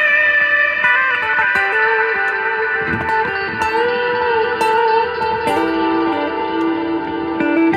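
Electric guitar, a Squier Classic Vibe Stratocaster fitted with a Fender Player Series loaded pickguard, played with slow, long-ringing picked notes and a string bend about halfway through.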